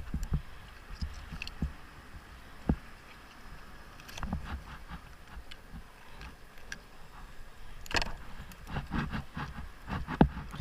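Scattered knocks, taps and scrapes of a dive knife and hands working on a fish on a kayak deck, over a faint low rumble.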